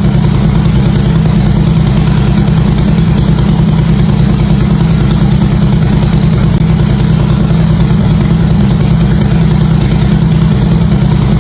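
Harley-Davidson V-twin engine idling steadily through its exhaust, loud and even, with no revving.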